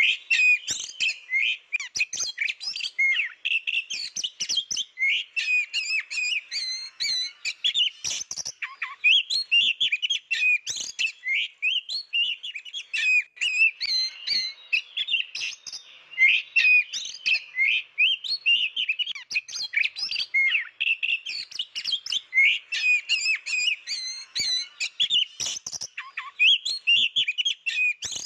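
Oriental magpie-robin singing without pause: a rapid, varied string of short notes.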